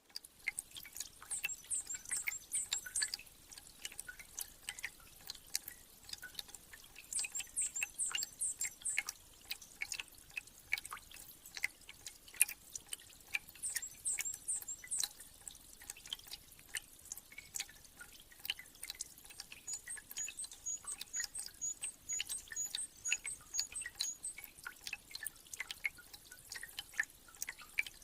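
Meltwater dripping in a spring thaw, many irregular drips, with small birds calling high above: three short bursts of twittering, then in the last third a steady series of thin high notes about twice a second.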